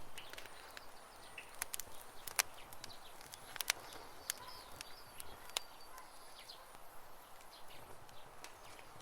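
Campfire crackling with irregular sharp pops, the loudest about two and a half and three and a half seconds in, while birds chirp faintly.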